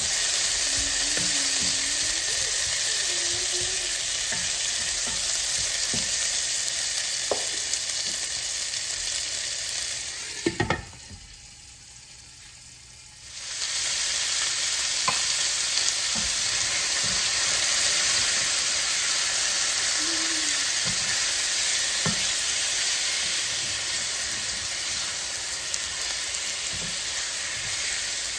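Shallots, garlic and tomato sizzling in oil in a stainless steel pan, stirred with a spatula that scrapes and taps the pan. Near the middle, after a sharp clack, the sizzle drops away for about three seconds, then raw chicken strips sizzle as they are stirred in the pan.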